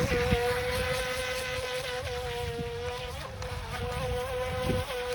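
Haiboxing Surge X03 RC speedboat's liquid-cooled electric motor whining at a steady high pitch as the boat runs at speed on the water. The whine wavers slightly with the steering and dips a little in loudness midway before rising again. Low wind rumble on the microphone underneath.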